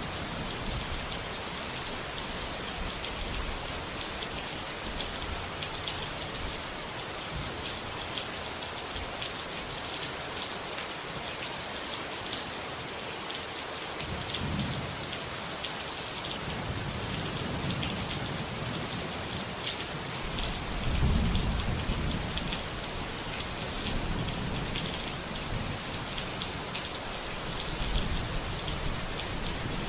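Steady rain pattering, with low rumbles of thunder rolling in around the middle, the loudest about two-thirds of the way through.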